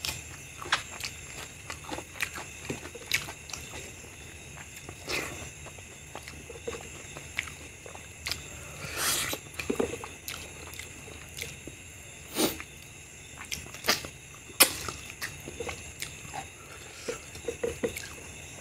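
Close-miked chewing and wet mouth smacks from eating mutton curry and rice by hand, coming as irregular clicks and smacks, with fingers squishing rice and curry on the plate.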